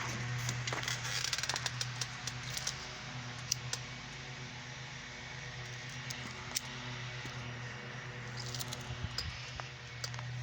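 Lowrider bicycle rolling along, with scattered sharp clicks and rattles from the bike over a steady low hum.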